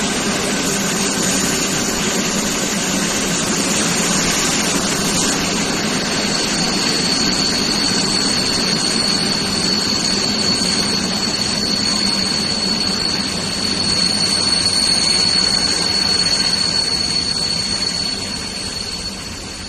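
Passenger train running into a station, heard from inside the coach: a steady rumbling running noise with a thin high whine from about six seconds in, the noise easing off near the end as the train slows.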